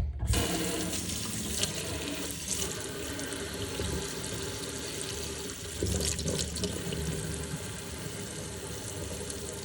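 Dental treatment unit running: a steady rush of water and air spray that starts abruptly and goes on without a break.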